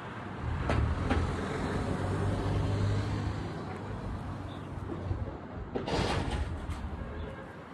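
A car running with a low, steady hum, with a couple of light knocks near the start and a louder knock about six seconds in.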